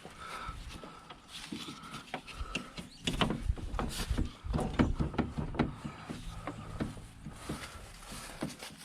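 Scattered knocks and clicks of parts and hand tools being handled, busiest from about three to six seconds in.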